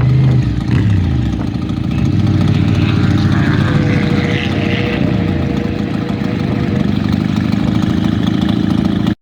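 Motorcycle engine running loudly; its revs fall about a second in, then it runs steadily.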